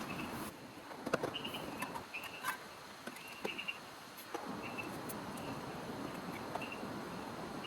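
Rain dripping and pattering, with scattered sharp drip clicks over a steady hiss. Short, high chirping calls repeat throughout.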